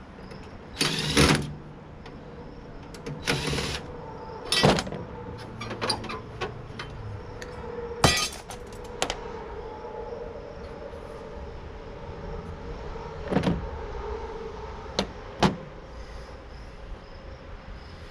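Metal parts of a tankless water heater knocking and clicking as it is dismantled by hand: a short rattle about a second in, then single sharp knocks and clicks spaced a few seconds apart. A faint steady hum runs underneath.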